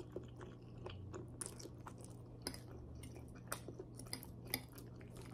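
A person chewing a mouthful of spaghetti with the mouth close to the microphone, soft wet mouth clicks and smacks scattered irregularly throughout.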